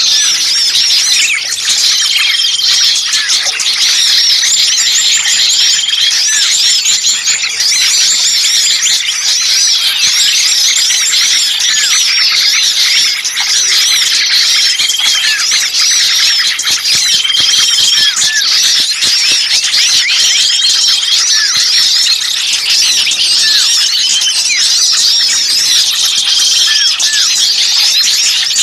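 A dense, loud chorus of many small songbirds chirping and twittering at once, the frantic, squealing calls of small birds 'pinched' (caught), mixed as a bird-lure recording to draw other birds in. A short, steady whistled note recurs every two to three seconds over the chatter.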